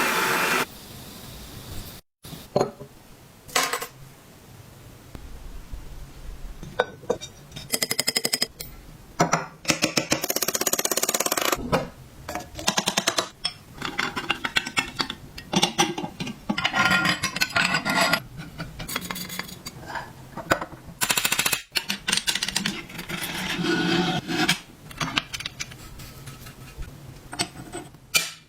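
Metal parts of a vintage hand-crank grinder clinking and knocking, with several short bursts of rapid clicking.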